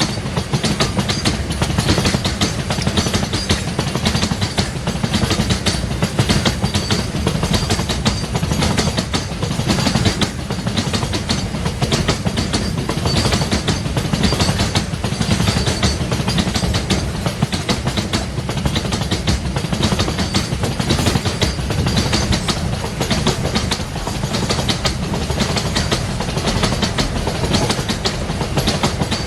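Freight train wagons rolling past, their wheels clattering without a break over the rail joints.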